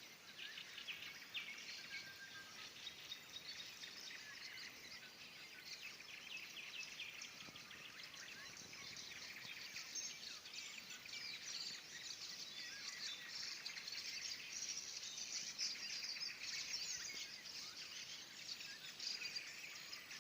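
Nightingale trills in a dense, continuous chorus of birdsong.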